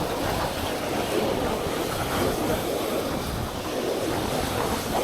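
Surf washing onto the beach in a strong wind, with gusts buffeting the microphone: a steady rushing noise that swells and eases.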